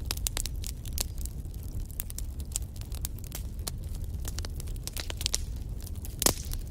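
Wood fire crackling in a fireplace: frequent sharp snaps and pops from the burning logs over a low, steady rumble of flame. One louder pop comes near the end.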